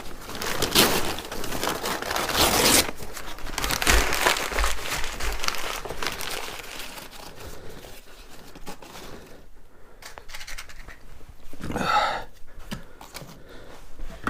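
Paper crumpling and tearing as a stove is laid with paper, kindling and coal for lighting. A few low knocks come about four seconds in, then quieter handling.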